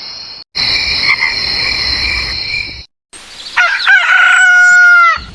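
A steady, high-pitched night chorus of calling frogs and insects, cut off briefly twice. Then about three and a half seconds in, a rooster crows once in a long call that rises, holds and falls away.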